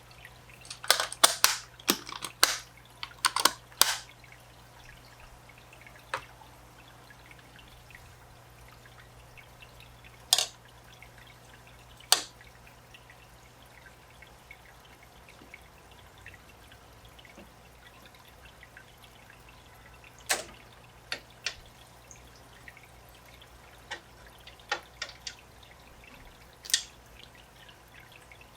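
Water dripping and splashing into an aquarium tank: a quick run of sharp drops and splashes in the first few seconds, then single drops every few seconds, over a faint steady low hum.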